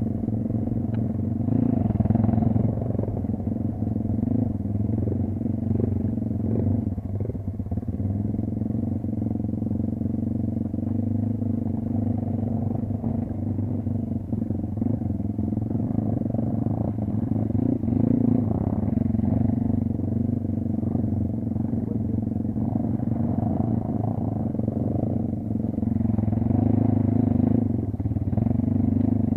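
Off-road motorcycle engine running steadily for the whole stretch, its pitch shifting only slightly now and then.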